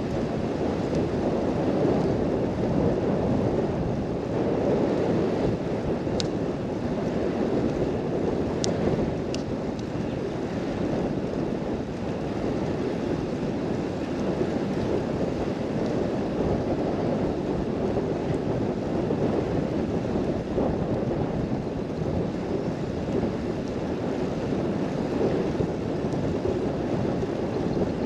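Steady outdoor rushing noise, with a few faint clicks about a third of the way in.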